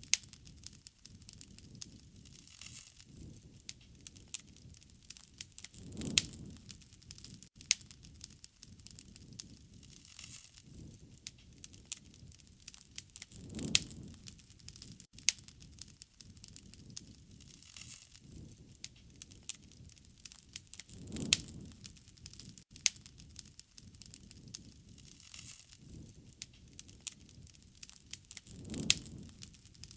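Wood fire crackling with many sharp pops and snaps, and a low rushing swell of the flames that comes back about every seven to eight seconds.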